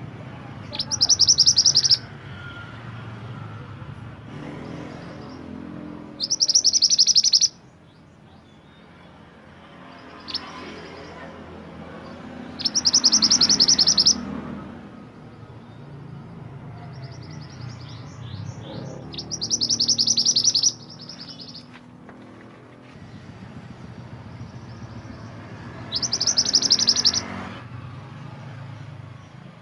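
A mantenan gunung songbird singing a short, rapid, high trill five times, about every six seconds, over a steady low background rumble.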